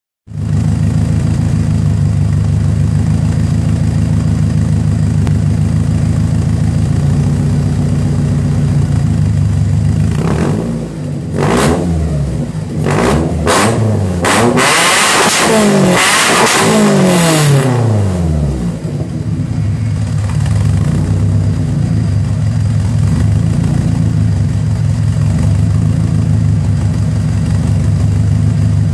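Honda B20Z four-cylinder engine in a 1991 Civic EF hatchback, idling through a Buddy Club Spec 2 exhaust with its silencer fitted. About ten seconds in it is blipped several times, then held at high revs for a few seconds before falling back to a steady idle.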